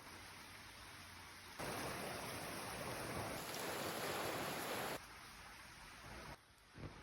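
Steady rushing outdoor noise with no clear tone. It turns much louder and fuller for about three seconds in the middle, starting and stopping abruptly.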